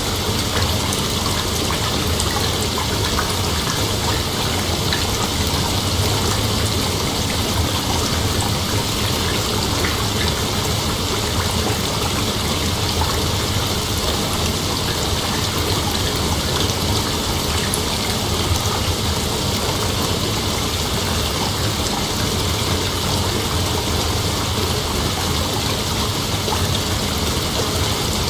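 Night insect chorus, a continuous even drone that never breaks or changes.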